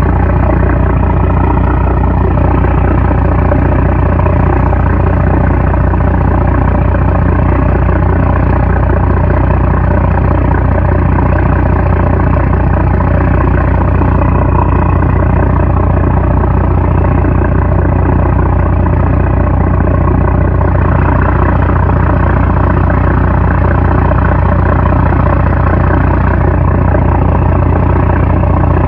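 A 750-horsepower single-boat fishing trawler's diesel engine running, a loud, steady low drone.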